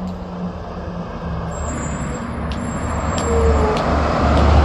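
Front-loader garbage truck's diesel engine running as the truck drives by, growing louder through the second half.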